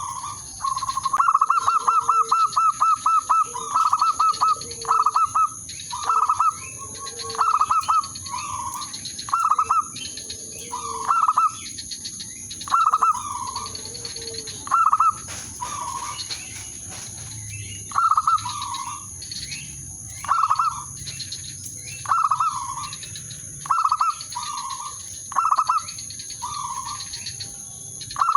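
Zebra dove cooing: a fast run of rapid cooing notes in the first few seconds, then short cooing phrases repeated every second or two. A steady high-pitched whine at two pitches sits underneath.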